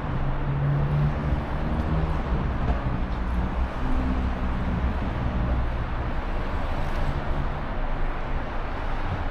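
Car driving: a steady engine hum with continuous road noise underneath.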